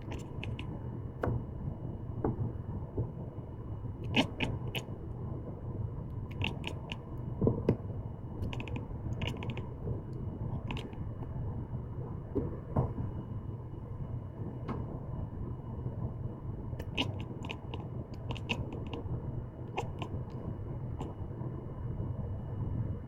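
Munchkin cat chattering at birds: scattered bursts of quick, sharp clicking, several clusters of rapid clicks with pauses between them.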